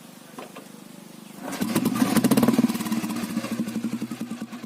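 1987 Royal Enfield Bullet 350's single-cylinder four-stroke engine coming in about a second and a half in. It rises briefly, then settles into its steady, even beat.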